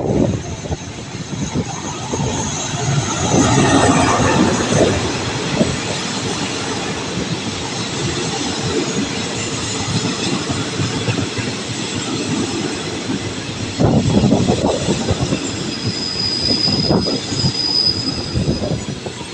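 A train running on the rails with continuous wheel and track noise, louder in a couple of stretches. A thin, high wheel squeal rings for a couple of seconds near the end.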